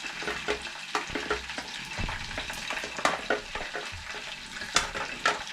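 Chicken pieces frying in hot oil: a steady sizzle with frequent crackles and pops.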